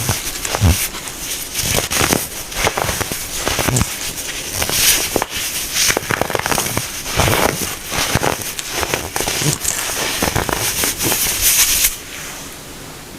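Compacted baking soda being crushed, a dense run of crisp crunching and crackling. The crunching stops abruptly about a second before the end, leaving a steady hiss.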